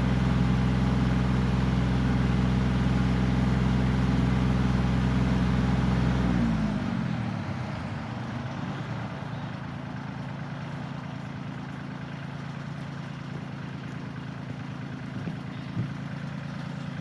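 Kioti CK20S compact tractor's three-cylinder diesel running at high throttle, then throttled back about six seconds in, its pitch falling to a steady idle.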